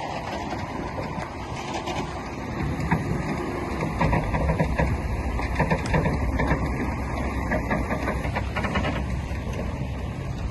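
Heavy diesel earthmoving machinery working steadily, a low engine rumble with frequent short clanks and knocks.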